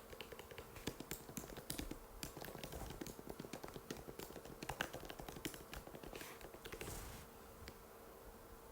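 Typing on an Apple MacBook butterfly keyboard: a fast, uneven run of light key clicks that stops about seven seconds in, over a faint steady hum.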